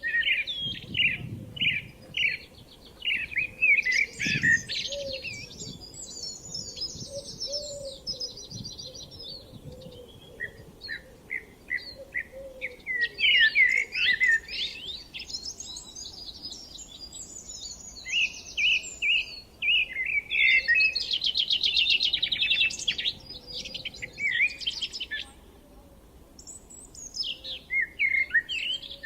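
Songbirds singing, with quick chirps and fast trills overlapping in bouts and two short lulls, one about a third of the way through and one near the end.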